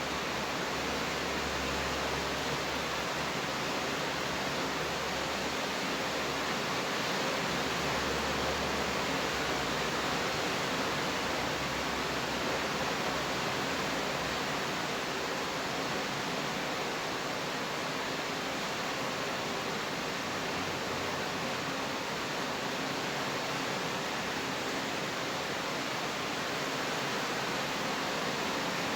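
Steady, even rain hiss with no single drops standing out. A faint low rumble under it fades out about halfway through.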